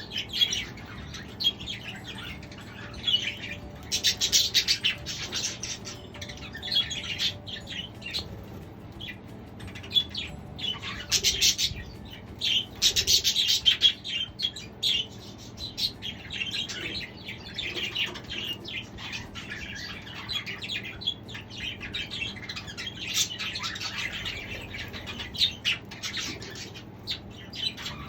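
Several budgerigars chirping and chattering continuously, with louder bursts of calls about four seconds in and again around eleven to fourteen seconds.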